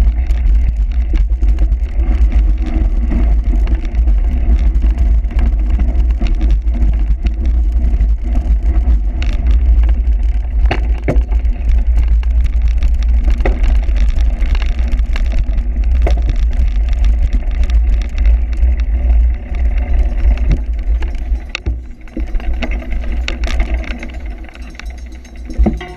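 Wind buffeting a bicycle-mounted or rider-worn camera's microphone during a cyclocross race, a heavy steady rumble with frequent knocks and rattles from the bike over rough ground. It eases and breaks up about three quarters of the way through.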